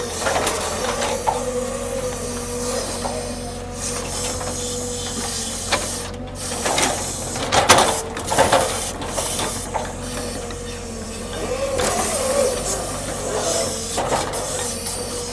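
Heavy machinery running with a steady whine while logs are handled: irregular knocks, clunks and scraping of wood, the loudest cluster about 7 to 9 seconds in.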